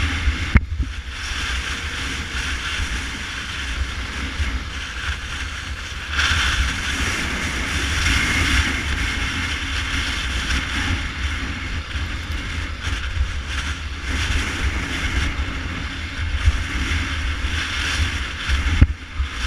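Honda Tornado 250 single-cylinder motorcycle running while being ridden, with heavy wind buffeting on the microphone over it; the sound drops out briefly about half a second in and again near the end.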